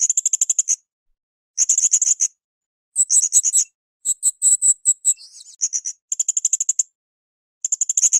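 Blue-crowned hanging parrot (srindit) calling: short bursts of rapid, shrill, high-pitched chirps, each burst about a second long, repeated with brief pauses between them, five or six times. One burst in the middle is higher and different in pattern from the rest.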